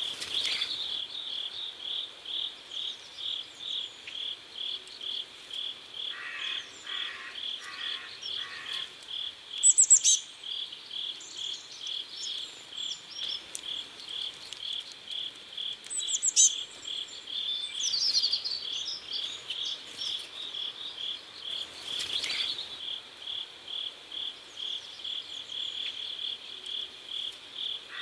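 Crickets chirping in an even rhythm, about three chirps a second, with short high bird calls over them, loudest about ten seconds in and again around sixteen seconds. A lower pulsing call joins for a few seconds early on.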